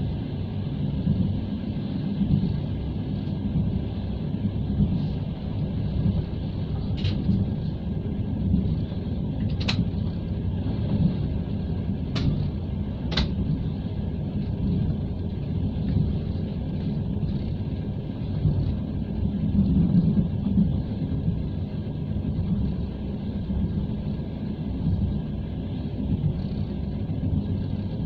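Passenger train running, heard from inside the carriage: a steady low rumble of wheels on the track, with four short sharp clicks in the middle.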